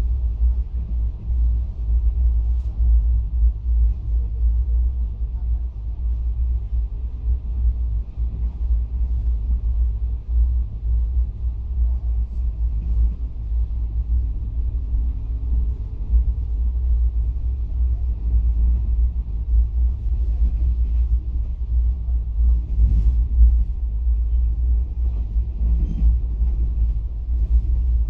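Steady low rumble of a moving passenger train heard from inside a closed, air-conditioned coach of the Garib Rath Express, with a few faint knocks near the end.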